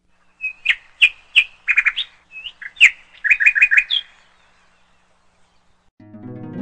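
A bird chirping: about fifteen short, sharp chirps in two quick runs, some in rapid groups of three or four. Near the end, plucked-string music like a harp begins.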